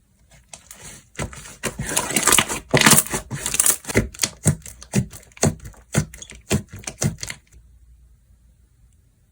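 Slime being pressed, folded and stretched by hand, giving a fast run of crisp clicks and pops that stops about seven and a half seconds in.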